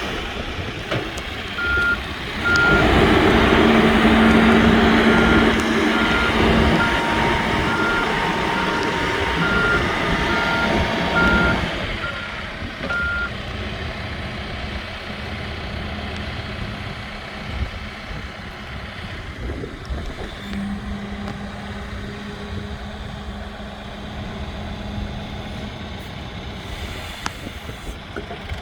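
Case 580N backhoe's reversing alarm beeping steadily, a bit over once a second, over its engine working louder; the beeping stops about 13 seconds in and the engine settles to a lower, steady running.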